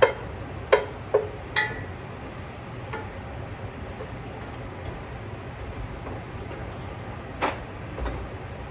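A cooking utensil knocking and clinking against the pan, three times in the first two seconds (one with a brief ringing tone), then once more sharply about seven and a half seconds in, followed by a dull thump, over a steady low hum.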